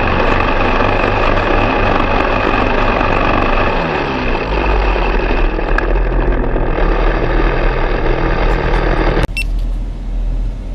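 An engine running steadily, its pitch falling about four seconds in, then cutting off suddenly near the end.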